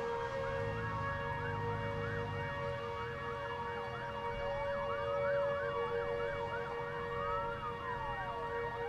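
Several emergency sirens sounding at once: slow wails rising and falling over about two seconds, overlapped by a faster yelp sweeping several times a second, with steady tones beneath.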